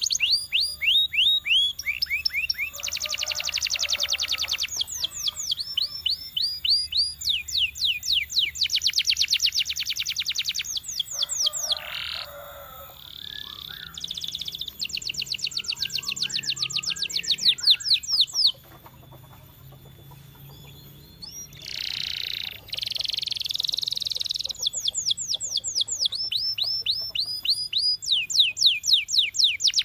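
Canary singing: fast trills of repeated down-slurred notes alternating with dense rolled phrases, in bursts broken by short pauses and one longer pause a little past the middle.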